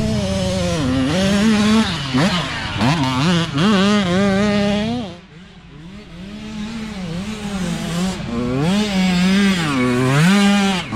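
Mini dirt bike engines revving up and down over and over under hard throttle. The sound drops away sharply about five seconds in, then builds again.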